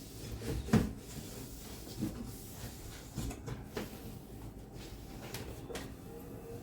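A few scattered light knocks and clicks of things being handled, with one sharper knock just under a second in.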